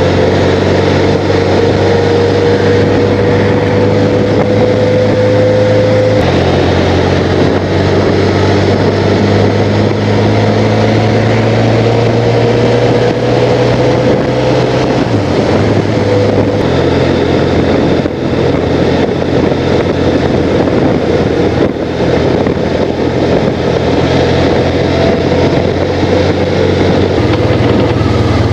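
Motorcycle engine running steadily while riding, with wind rushing past. The engine note shifts in steps a few times and slowly rises between them.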